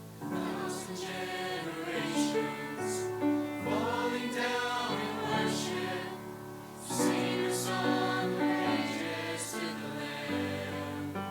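A choir singing a gospel worship song in harmony, the voices coming in together right at the start.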